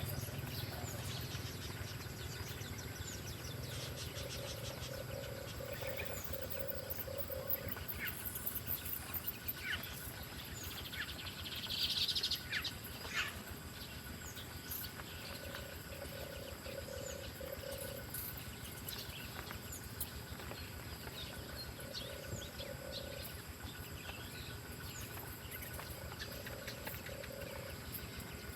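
Woodland wildlife sounds: a low pulsing trill comes four times, with scattered short bird chirps and clicks over a steady high insect whine. A brief, louder chirping burst comes near the middle.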